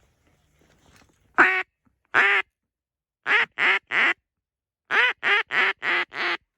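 A run of ten loud, nasal mallard-style quacks: two drawn-out ones, then a group of three, then a quicker group of five.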